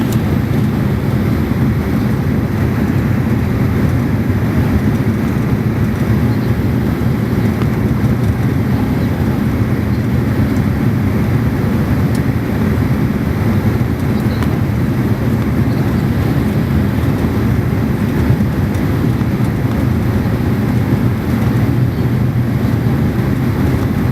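Steady cabin drone of a Fokker 50's twin turboprop engines and propellers in flight, heard from inside the cabin, with a low, even hum under a rushing noise.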